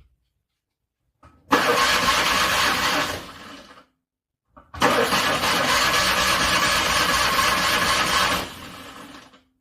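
Starter cranking a cold car engine in two attempts, the first short, the second about three and a half seconds long, each starting just after a faint click. Each attempt stops abruptly and dies away; the engine is cranking in freezing cold and struggling to start.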